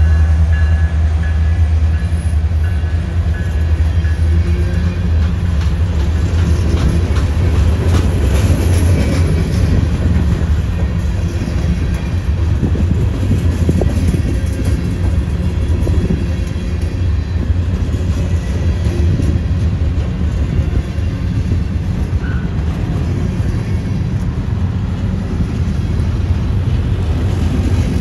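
Freight cars rolling past close by: a steady low rumble of steel wheels on the rails, with occasional clicks and knocks.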